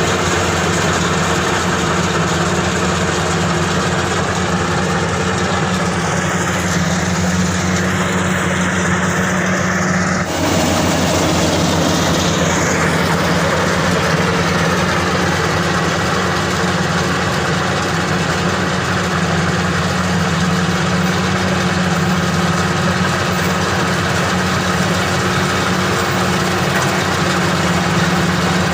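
Engine of a Maxxi Bimo 102 SS rice combine harvester running steadily, with a brief change in its sound about ten seconds in.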